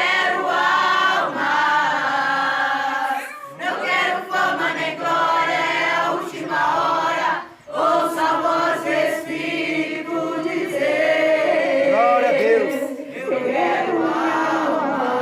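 A church youth choir singing a gospel song together, with long held notes and two short breaks between phrases.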